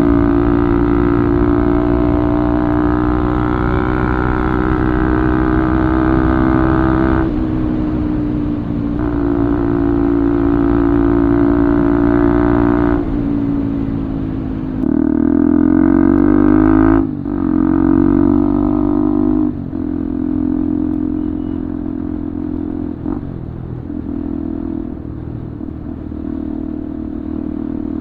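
Bajaj Pulsar 200's single-cylinder engine running through an Akrapovic full-system exhaust, a steady loud exhaust note. The note shifts pitch several times, with a falling glide about fifteen seconds in and a sudden drop about two seconds later.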